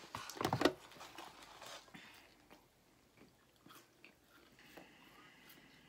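Close-up eating sounds: people biting and chewing McDonald's chicken nuggets and fries. A louder burst of noise comes in the first second, then quieter scattered chewing sounds.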